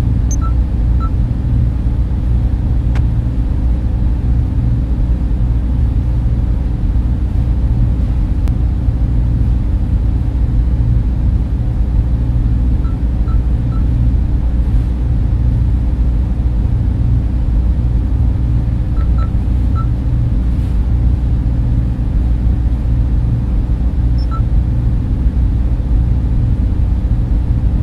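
Steady, deep data center hum of server and cooling fans running, even in level throughout, with a few faint short pips now and then.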